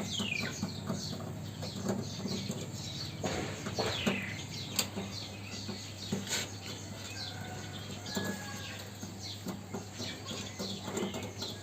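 Birds chirping in short, falling calls, over a steady low hum.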